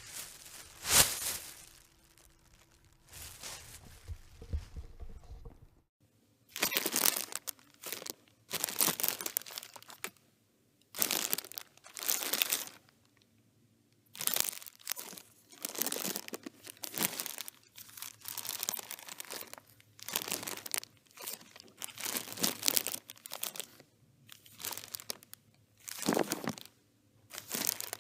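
Plastic bag being crinkled and crumpled by hand in repeated bouts of about a second each, with short pauses between, and a sharp louder crackle about a second in.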